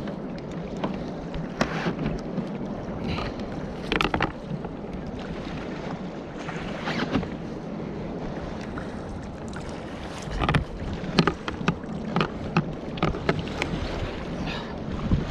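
Water slapping against a kayak's hull on a choppy sea, with wind on the microphone. Scattered sharp knocks and splashes come through, most of them in the second half.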